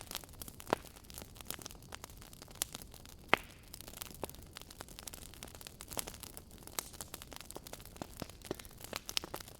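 Wood fire crackling: irregular sharp pops and snaps over a steady hiss, with one louder pop about a third of the way in.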